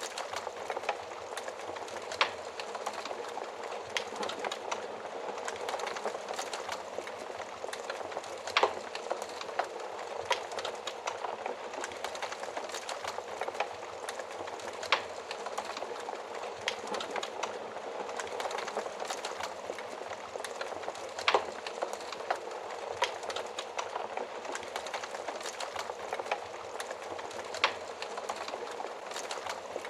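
Wood fire crackling steadily inside an oven, with sharp louder pops every few seconds.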